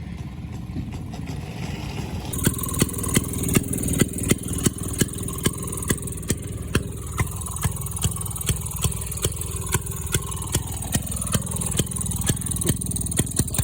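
Small engine on a minibike, which its owner says is a boat engine, running steadily, with a regular sharp clicking about two to three times a second starting a couple of seconds in.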